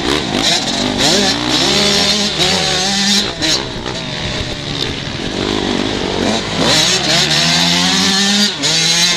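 Several 125cc two-stroke motocross bikes racing, engines revving hard and shifting, with overlapping engine notes repeatedly rising and falling.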